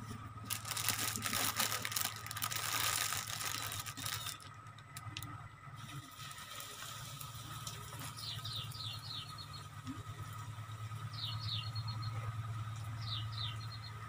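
A steady low hum, with a burst of dense crackling for the first few seconds. From about the middle on, a small bird calls three times, each call a quick run of descending chirps ending in a short trill.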